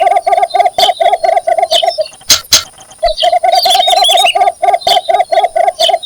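Cinnamon bittern giving its mating call: a rapid series of low, clucking notes, about five a second, in two bouts with a short pause between. Fainter high chirps and two sharp clicks sound in the pause.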